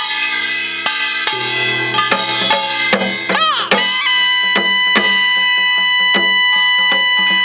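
Korean traditional music in the gutgeori rhythm: a held wind-instrument melody, with a wavering bend in pitch midway, over a steady pattern of janggu drum strokes.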